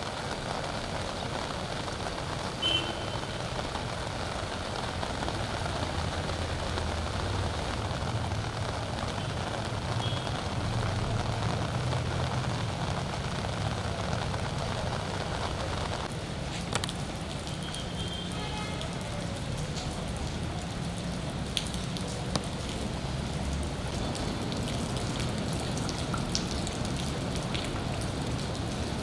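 Steady rain falling on floodwater and wet ground, an even hiss over a low rumble, with a few faint brief chirps and clicks.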